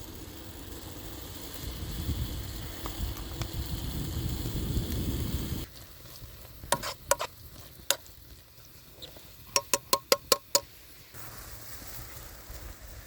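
A low rumbling hiss that builds for about five seconds and stops suddenly. It is followed by ringing clinks of a spoon against a cup as a drink is stirred: a few spaced clinks, then a quick run of about seven.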